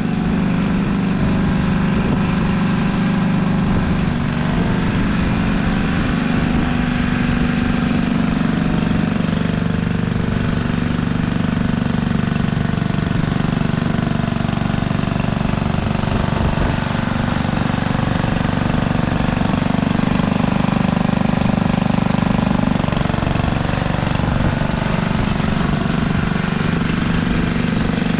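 Simplicity Landlord garden tractor engine running steadily at working speed, its pitch wavering slightly a few times.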